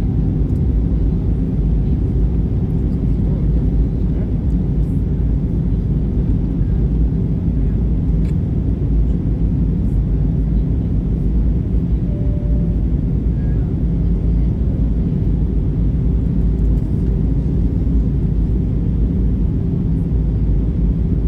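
Airbus A320 in flight: a steady, unchanging low rumble of engine and airflow noise.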